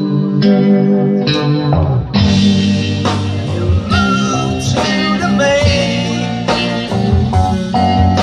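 Live rock band playing an instrumental passage, guitar to the fore over bass, with the full band coming in harder about two seconds in.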